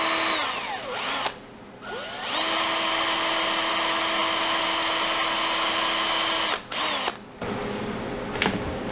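Power drill boring a hole into a tray of frozen cooked ground beef. The motor whines up in pitch as it spins up and drops as it stops. It gives a short run, two brief blips, then a steady run of about four seconds that winds down, and one last short burst.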